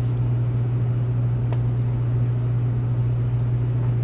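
A steady, loud low hum with an even rumble beneath it, unchanging throughout.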